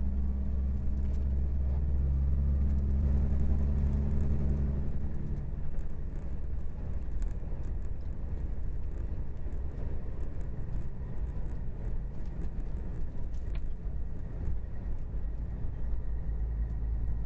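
Steady low rumble of a vehicle driving: engine drone and road noise heard from inside the cabin. A held low hum for the first few seconds gives way to a rougher, even road rumble.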